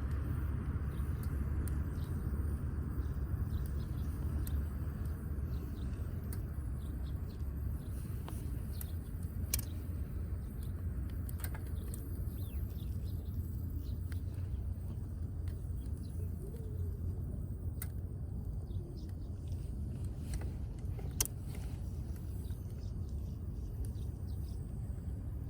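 Damp firewood burning in a wood grill over a steady low rumble, with scattered sharp crackles and pops, a few of them louder, about ten seconds in and again near twenty-one seconds.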